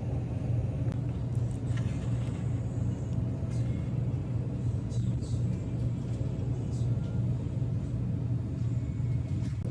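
A steady low rumble at an even level, with a few faint, light clicks over it.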